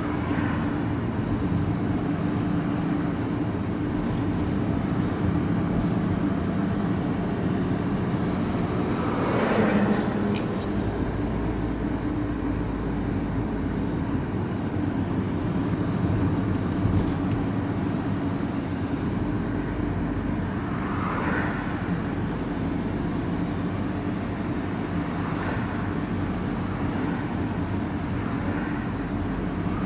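Steady drone of a van's engine and road noise, heard from inside the moving vehicle, with louder swells about ten seconds in and again near twenty seconds as other traffic passes.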